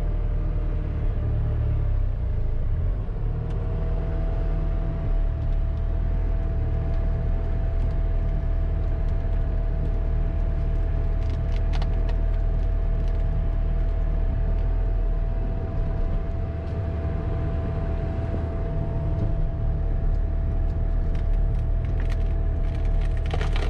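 Skid-steer loader's diesel engine running steadily under load, with a steady hydraulic whine. Wood cracks and splinters sharply near the end.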